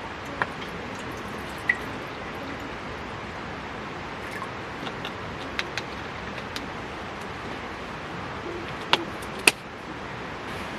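Steady heavy rain hissing, with a wood campfire crackling over it: scattered sharp pops, two louder ones close together near the end.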